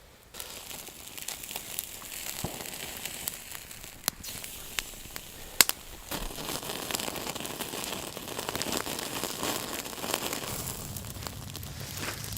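Small wood fire crackling with many sharp pops, one loud pop about five and a half seconds in. The fire burns kindling shaved and split from a single stick.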